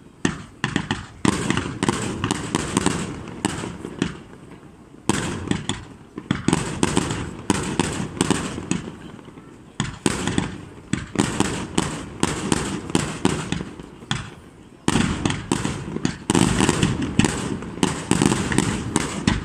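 Fireworks display: aerial shells launching and bursting in rapid volleys of bangs and crackles. There are three brief lulls between volleys.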